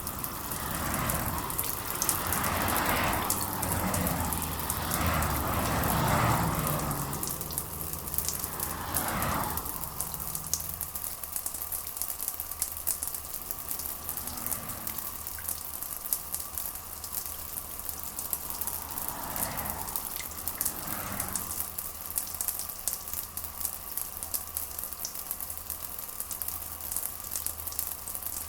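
Steady rain pattering, with several louder rushing swells in the first ten seconds and two more about twenty seconds in.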